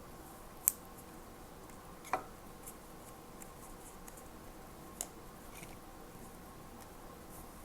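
Three sharp light clicks or taps of small objects being handled on a desk, the first the loudest, with a few fainter ticks between them over a faint steady hum.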